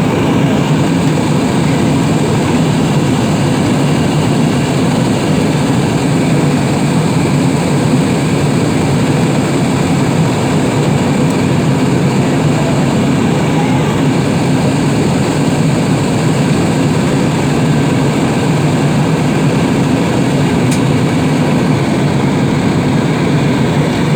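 Steady, loud engine and air noise heard inside the cabin of a passenger airliner.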